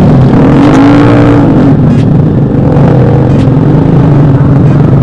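Motorcycle engine through a loud aftermarket exhaust, blipped up and back down about a second in, then running steadily at a lower pitch.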